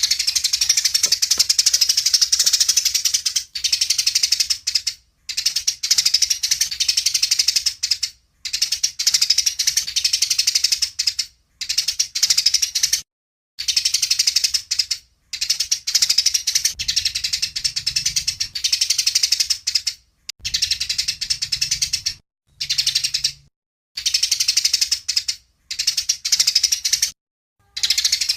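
Recorded songbird song of the kind played to tutor cage birds: fast, dry, rattling high-pitched trills in phrases of one to five seconds, broken by brief silences.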